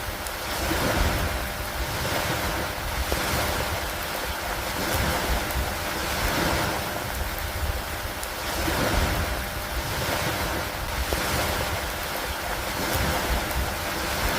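Steady rain falling with lake water lapping: a continuous hiss that swells and eases every two seconds or so, with a few faint ticks.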